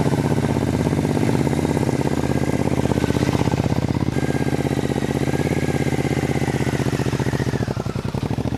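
Triumph America's parallel-twin engine idling steadily, with an even, rapid run of exhaust pulses.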